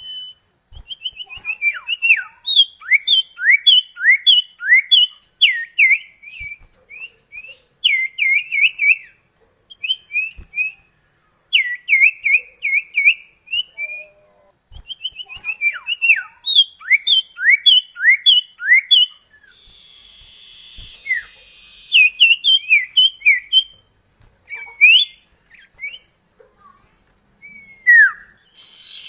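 Cipoh kacat (common iora) singing rapid rolling runs of sharp chirps, many sweeping downward, in bursts broken by short pauses. A faint steady high tone runs behind the song.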